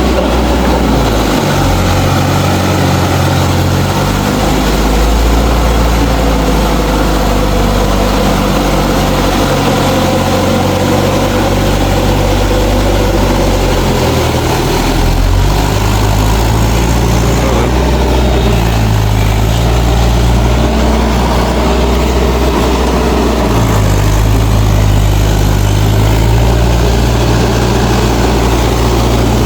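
Mahindra 4WD DI tractor's diesel engine running steadily, its low note shifting in pitch a few times as engine speed or load changes.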